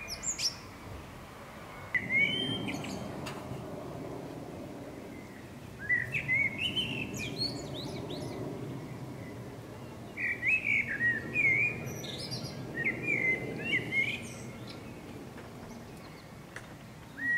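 A songbird singing in short chirping phrases, several bursts a few seconds apart, over a steady low background rumble.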